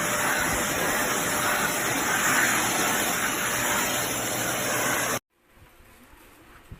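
Deerma DX115C handheld stick vacuum cleaner running at full suction, a steady rushing motor-and-airflow noise that cuts off abruptly about five seconds in.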